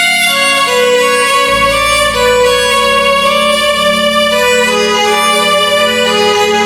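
Roland XPS-10 keyboard's slow violin tone playing a melody of long sustained notes over a low steady bass.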